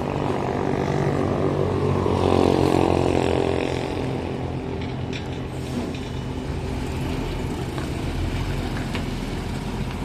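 Diesel engine of a heavy truck running, swelling and rising a little in pitch about two seconds in, then settling to a steady run.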